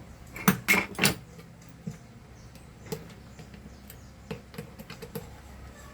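Torx screwdriver working small screws out of a vacuum motor's bearing housing: a quick cluster of sharp clicks about half a second in, then scattered light metallic ticks as the bit turns and the tools and parts are handled.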